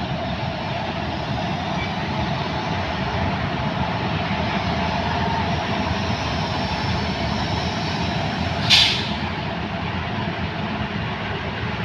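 Train hauled by an electric locomotive running on the track with a steady rumble and rushing noise. A single short, sharp hiss stands out about nine seconds in.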